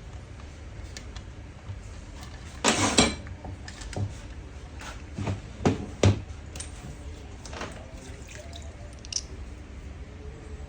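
Small metal parts clinking and knocking as they are handled during diesel pump and injector repair: a short burst of clatter about three seconds in, then a few separate knocks.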